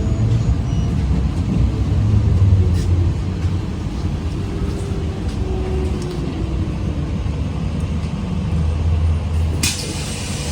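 ZiU-682G trolleybus riding, heard from inside the cabin: a steady low rumble of the running gear and road, with a faint pitched motor whine. A single sharp knock comes near the end.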